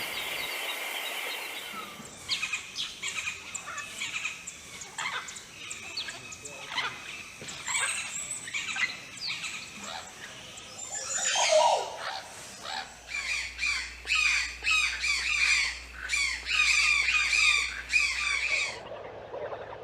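Wild birds calling outdoors: a mix of short chirps and squawks, one louder call sliding downward around the middle, then a fast run of repeated chirps that stops abruptly near the end.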